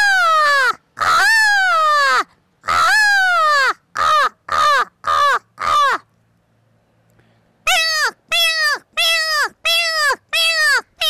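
A woman imitating a crow's cawing with her voice. She gives three long caws, then four short ones, pauses briefly, and ends with a quick run of short caws about two a second, each one falling in pitch.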